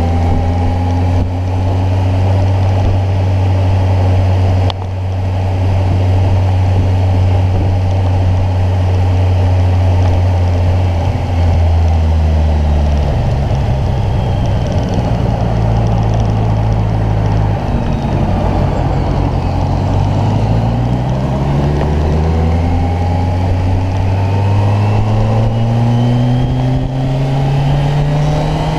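Kawasaki Ninja 1000's inline-four engine running under way, holding a steady pitch for about twelve seconds, then dropping as the bike slows, and from about twenty seconds in rising steadily as it accelerates.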